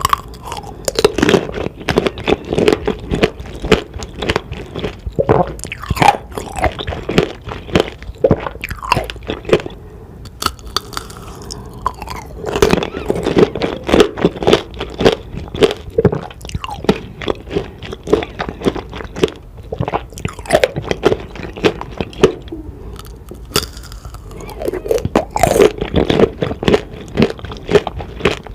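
Close-miked chewing of tanghulu: the hard candied-sugar shell cracking and crunching between the teeth with wet chewing of the fruit, in bouts separated by brief pauses.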